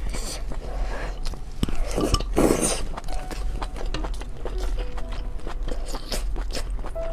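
Close-miked eating sounds: chewing with frequent small clicks and crunches, and a louder, noisier burst about two and a half seconds in.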